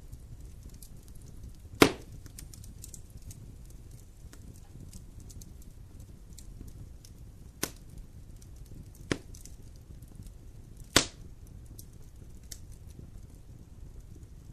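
Wood campfire burning: steady faint crackling with four sharp loud pops from the burning wood, the loudest about two seconds in and about eleven seconds in.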